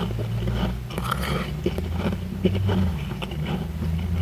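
Chewing powdery freezer frost, with repeated short crunches over a steady low hum.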